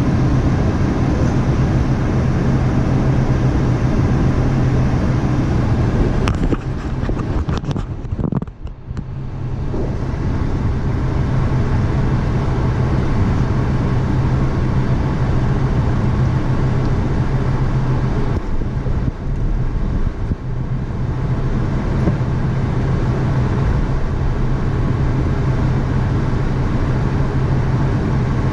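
A vehicle engine running steadily, with a constant low hum and a brief drop in level about eight seconds in.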